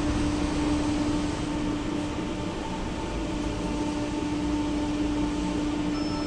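Inside a tram standing at a stop: a steady electrical hum from its equipment over low rumble, with a brief high beep near the end.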